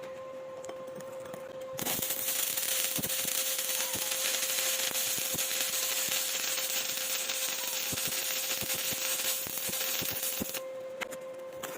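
Electric welding arc crackling and hissing with many sharp pops. It starts about two seconds in and stops shortly before the end, over a steady hum that runs throughout.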